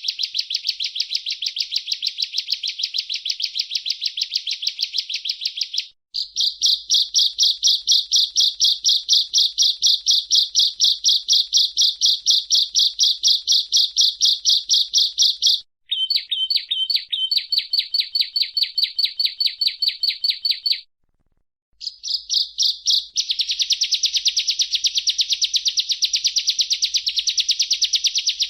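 Bar-winged prinia (ciblek) singing long runs of rapid, evenly repeated high-pitched chirping notes. The song breaks off abruptly three times for short silences, then resumes.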